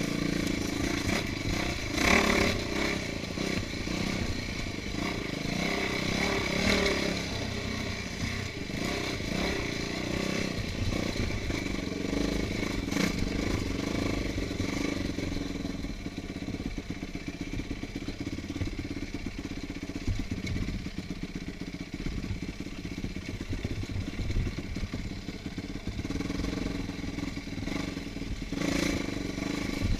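Trail motorcycle engine running and revving as it is ridden over rough ground, with dense rattling in the second half.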